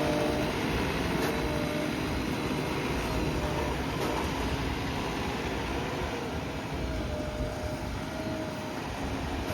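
JCB backhoe loader's diesel engine running steadily, with a faint whine that comes and goes.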